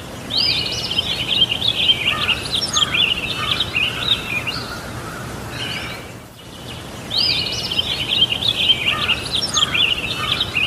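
A songbird singing a fast, twittering, warbling song, one long run of phrases and then, after a short pause, a second run that looks the same. Under it is a steady background hiss with a faint low hum.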